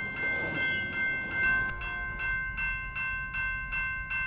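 Railroad crossing bell ringing steadily at about three strokes a second, its tones held between strikes. A low rumble comes in about a second and a half in.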